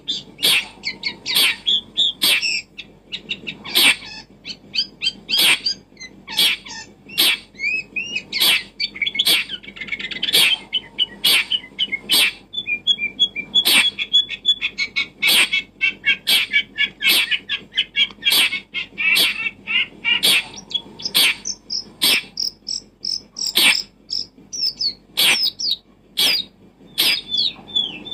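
Birds chirping and twittering in quick, busy calls, mixed with many sharp clicks at irregular intervals.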